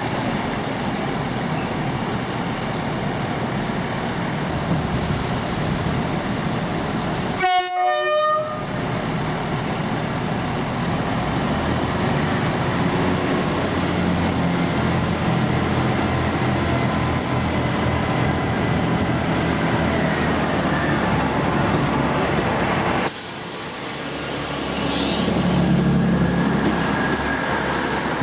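Diesel passenger train running, sounding one short horn blast about a quarter of the way in, with engine hum and rail noise continuing after it.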